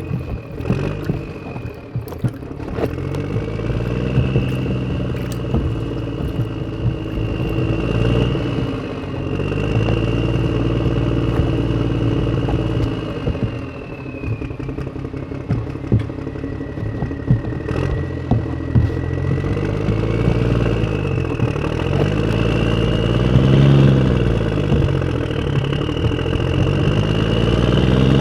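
Small motor of a DIY mini tractor running. Its pitch rises and falls again and again under changing load, over a wavering high whine, with a clatter of clicks in the first few seconds.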